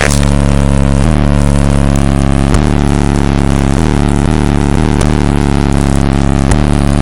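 High-powered car audio system played very loud, deep sustained bass notes that shift to a new pitch every second or two.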